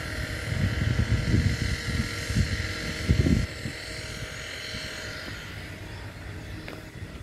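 Freight train of oil tank cars rolling slowly past. A low, uneven rumble is loud for the first three and a half seconds, then drops off sharply to a quieter steady rumble with faint steady tones above it.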